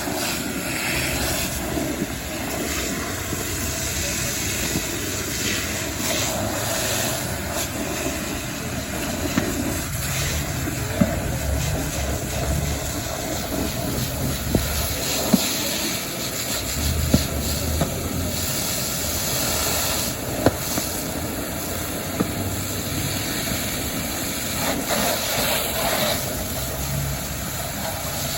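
A fire engine running steadily under a continuous hiss of hose water and steam on the fire, with a few sharp knocks scattered through.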